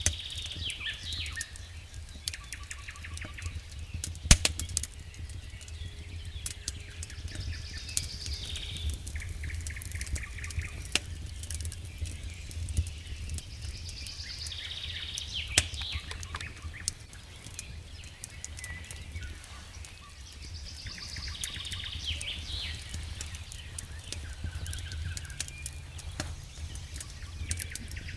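Campfire crackling with scattered sharp pops over a steady low rumble, while a bird sings a short phrase again and again, about every six or seven seconds.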